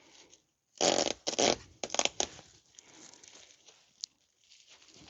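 Adhesive tape pulled off its roll in three quick rips, the first about a second in, followed by fainter handling noises as the tape is laid on.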